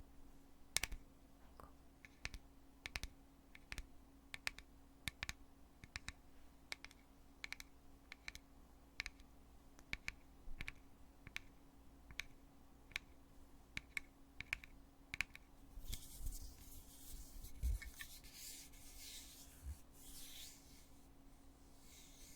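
Heavy plastic lid of a foundation container clicking open and shut over and over, about two clicks a second. From about 16 s in the clicks give way to scratching and rubbing as the container is handled, with a couple of low thumps.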